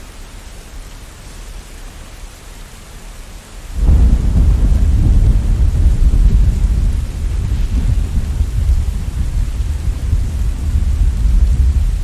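Steady rain hissing, then about four seconds in a deep roll of thunder breaks in suddenly and keeps rumbling low under the rain, easing a little after a few seconds.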